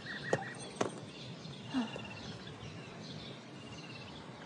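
Outdoor ambience with birds chirping in short, rapid trills that recur every second or so over a steady hiss. Two sharp clicks within the first second are the loudest moments.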